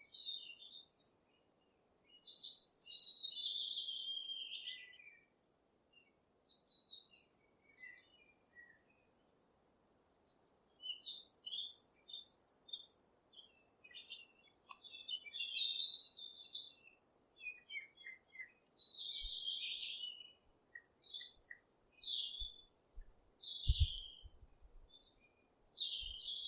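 Birdsong: birds chirping and warbling in short high phrases, with a near-silent pause of a few seconds partway through before the calls pick up again.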